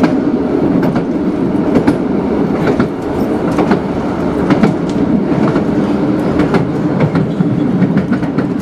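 Passenger train running at speed, heard from inside the carriage: a steady rumble from the wheels and track, with scattered clicks and knocks as the wheels pass over the rails.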